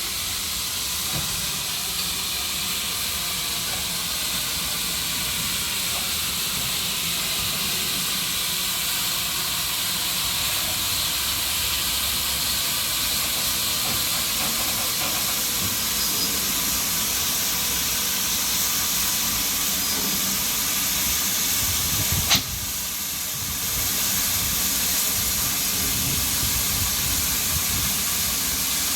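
GWR 4500-class 2-6-2 prairie tank engine blowing off a steady hiss of steam as it creeps forward. There is one sharp knock about three-quarters of the way through.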